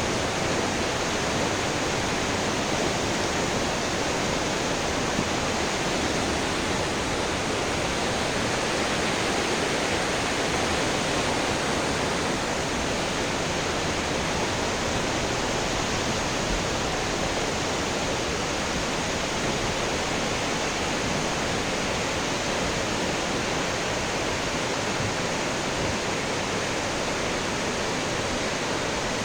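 A fast-flowing river rushing over rocks and falls, a steady, unbroken wash of white water.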